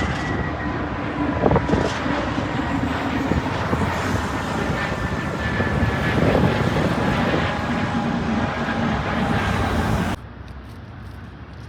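Jet airliner engines running: a loud, steady roar with a faint high whine over it, cutting off suddenly about ten seconds in to a quieter background.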